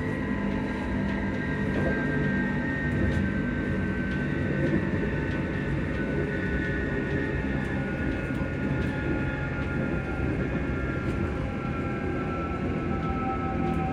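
Electric train's traction motors and VVVF inverter whining, heard on board. Several tones glide slowly down in pitch as the train slows, over a steady rumble of wheels on rail.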